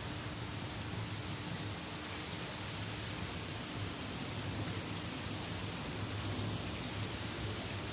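Heavy rain pouring steadily onto a paved yard and trees, an even, unbroken hiss.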